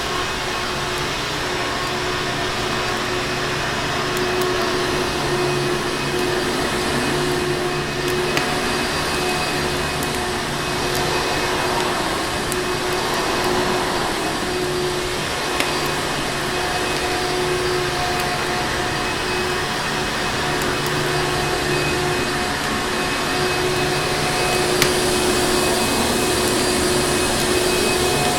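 Vacuum cleaner running steadily, a dense rushing noise with a constant motor hum, and a few faint clicks from a crackling fireplace mixed in.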